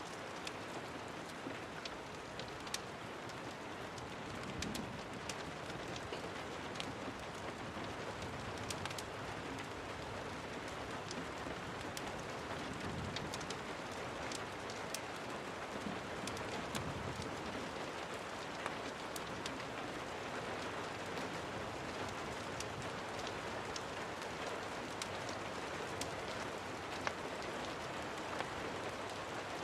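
Steady rain falling, with many scattered sharp ticks on top.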